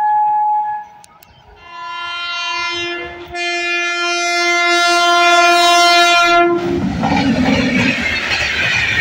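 Indian Railways WAP-7 electric locomotive sounding its horn: a short high toot, then a long blast of about five seconds on a lower note. It then passes close by, the rumble and clatter of wheels on the rails taking over.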